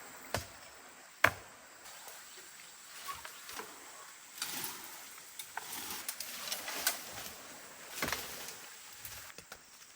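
A few sharp knocks and taps, the loudest about a second in, with soft rustling noise between them.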